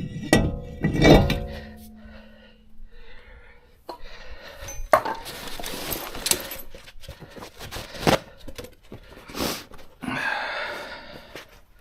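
Metal tools and brake parts clanking together with a ringing clink in the first couple of seconds, followed by scraping, rubbing and a few sharp knocks of hand work on the brake assembly.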